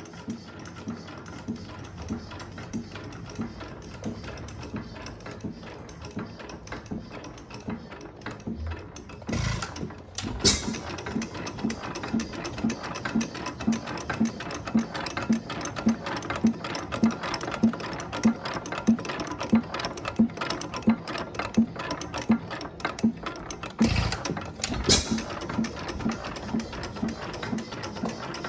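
A 6 hp Armstrong hit-and-miss engine running, its valve gear and elliptical gears clattering about twice a second. Two pairs of loud bangs come about a third of the way in and again near the end: the engine firing between long stretches of coasting, as a hit-and-miss engine does.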